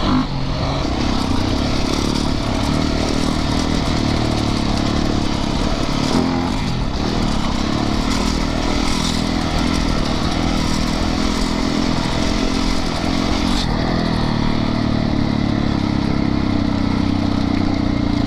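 Yamaha YZ450FX dirt bike's single-cylinder four-stroke engine running steadily under way on the trail, its pitch shifting now and then with the throttle.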